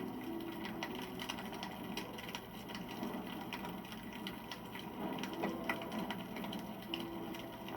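Wood burning in a campfire, crackling with irregular small pops and snaps.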